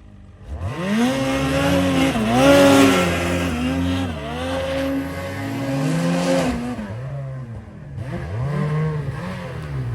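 Snowmobile engine revving hard, its pitch climbing and dipping repeatedly as the rider works the throttle. It eases off around seven seconds in and picks up again near the end.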